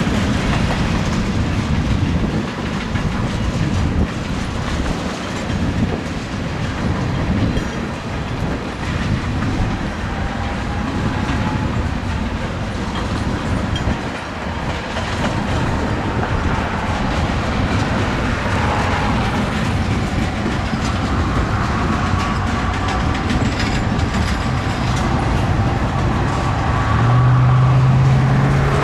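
A Canadian National freight train's cars rolling past, wheels clattering over the rail joints in a continuous clickety-clack. Faint high wavering wheel squeal comes in during the second half, and a steady low hum swells near the end.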